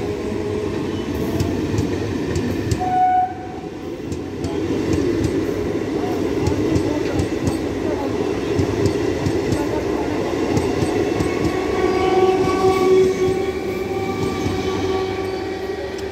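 MEMU electric train running past at close range, wheels clattering over the rail joints. A horn sounds in the second half and is held for several seconds.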